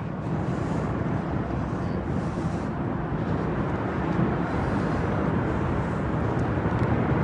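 Steady outdoor rumble with no distinct events.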